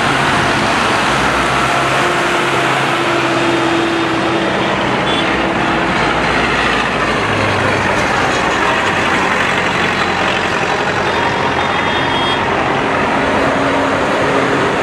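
Tractor engines running as a line of parade tractors drives past, a steady loud mechanical drone with several low engine tones shifting as different machines go by.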